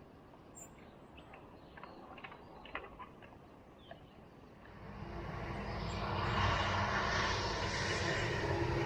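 Faint scattered ticks. Then, from about five seconds in, a steady rush of wind and road noise with a low hum swells up and holds: a BMW R1150GS boxer-twin motorcycle riding.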